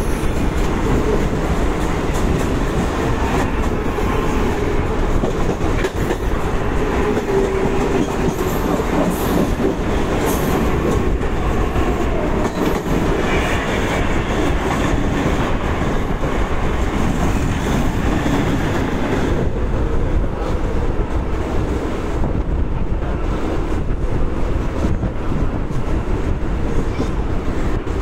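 Mumbai suburban EMU local train running, heard from its open doorway: the steady rumble of wheels on rails.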